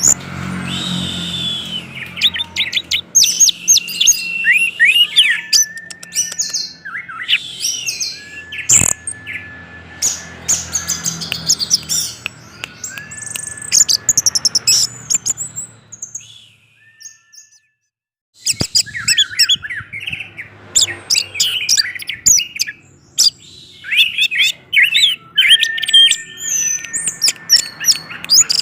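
Orange-headed thrush singing a long, fast run of varied whistled and chirping phrases with sliding notes. The song breaks off for about two seconds just past the middle, then resumes.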